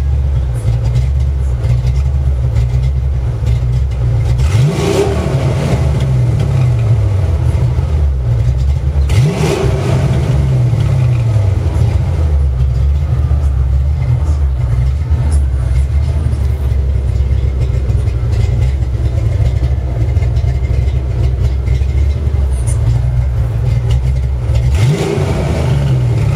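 Ford Mustang LX's 5.0 V8 idling steadily, blipped three times: about four and a half seconds in, about nine seconds in, and near the end. Each rev rises quickly and settles back to idle.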